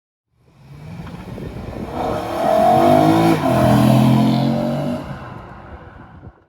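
BMW E92 M3's 4.0-litre V8 through an M Performance exhaust, a car accelerating by: the engine note swells in, dips briefly in pitch about three seconds in, then fades away.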